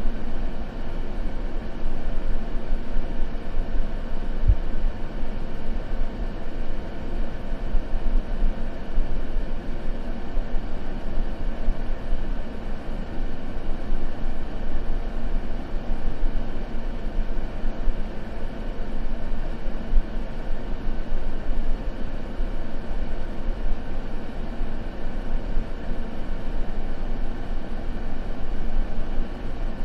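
Steady, unchanging white noise, its weight toward the low end, so that it sounds deep rather than hissy.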